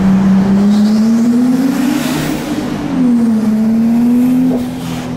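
Turbocharged Nissan 350Z's V6 engine accelerating through an underpass, heard from inside the cabin. The engine note climbs for about two seconds, falls back sharply about three seconds in as the throttle eases, then runs steady.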